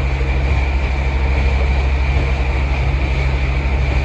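Sailing catamaran's engine running steadily under way, a constant low drone, with a steady hiss of wind and water over it.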